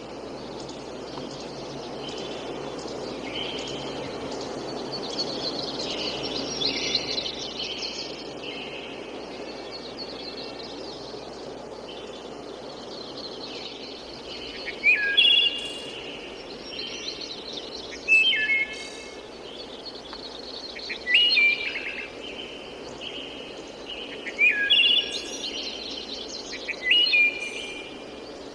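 Birds chirping and singing over a steady background rush. From about halfway, one bird repeats a loud, short call phrase roughly every three seconds.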